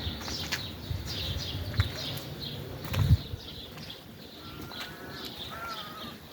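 Small birds chirping over and over, with a few low thumps in the first half and a couple of longer, pitched bird calls near the end.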